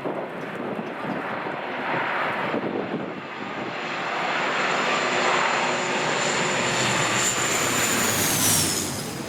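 Jet airliner going by close, its engine noise building, and a high turbine whine that drops in pitch as it passes near the end.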